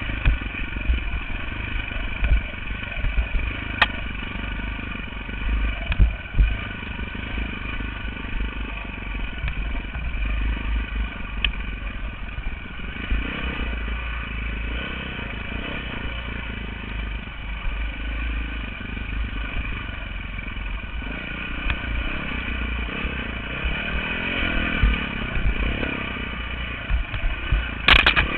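Dirt bike engine running under way, with a heavy low rumble and a few sharp knocks and clatter. The engine revs up and down near the end.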